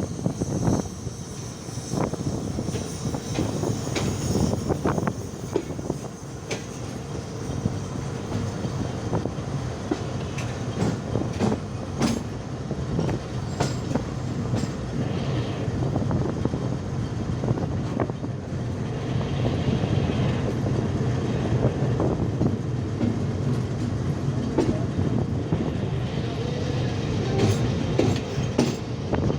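Passenger train cars rolling past on the track, the wheels clicking over rail joints over a steady rumble.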